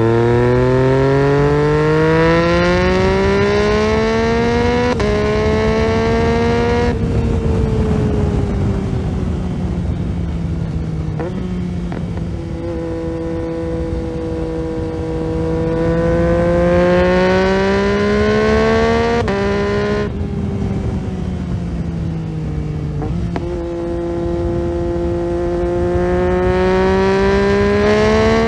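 2022 Yamaha MT-09's inline three-cylinder engine through an Akrapovic titanium full exhaust system, accelerating hard. The pitch climbs through the gears with about five quick quickshifter upshifts, and between the pulls the engine eases off with a slowly falling note.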